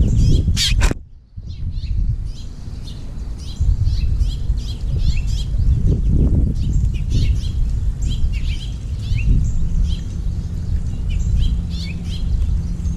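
Small songbirds chirping and twittering in many short calls, over a steady low rumble. A couple of sharp clicks and a brief drop in level come about a second in.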